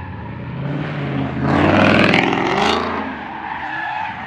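Car engine revving, with a loud surge about a second and a half in that eases off near the three-second mark.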